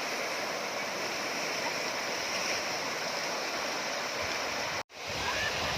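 Waterfall water rushing steadily over rock. The sound drops out for an instant near the end, then resumes.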